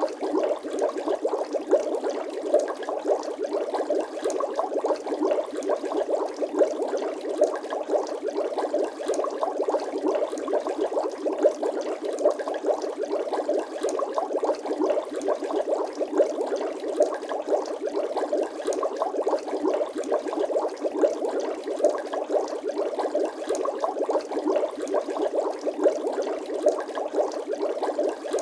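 Bubbling water sound effect: a continuous, dense stream of small bubble pops and gurgles with no bass.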